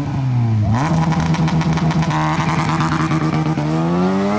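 Competition car's engine launching from the start line: the revs rise sharply about a second in, hold fairly steady, then climb again near the end as the car accelerates away.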